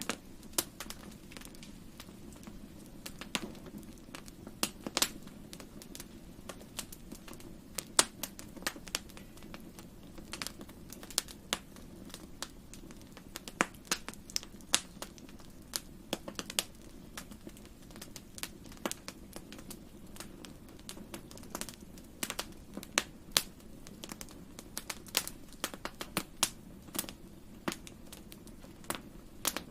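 Wood fire crackling in a fireplace: irregular sharp pops and snaps, several a second at times, over a steady low background of the burning fire.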